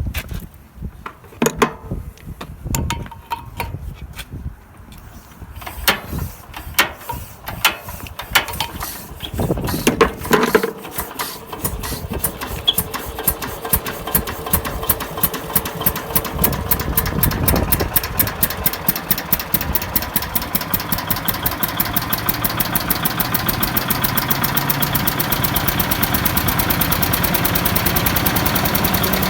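Modified Kohler pump-jack engine starting up: slow, uneven firing strokes at first, then from about ten seconds in a regular beat that keeps speeding up as the engine comes up to running speed.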